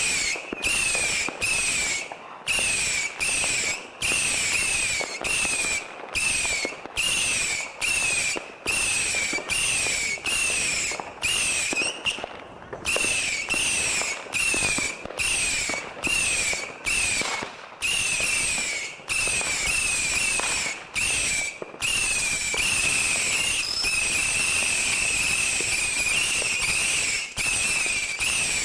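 Fireworks going off without pause, with a high whistling tone running through a rapid crackle. For about the first twenty seconds the sound is broken by short regular gaps, then it runs on unbroken.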